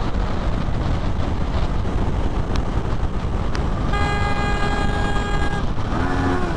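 A vehicle horn sounds one long steady blast of about a second and a half, starting about four seconds in, over steady wind and vehicle noise.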